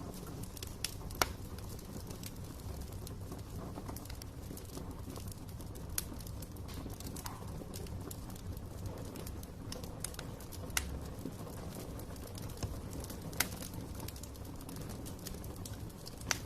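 Wood fire crackling in a fireplace: scattered sharp snaps and pops, a handful of them louder, over a low steady rumble from the burning logs.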